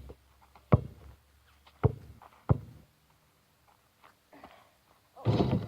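A basketball bouncing on hard ground three times, each a sharp thud, then a short, louder noisy burst near the end.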